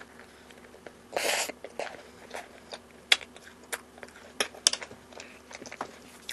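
Close-miked mouth sounds of a person eating a spoonful of ice cream with yakgwa: a short breathy burst through the nose or mouth about a second in, then soft chewing with scattered wet mouth clicks.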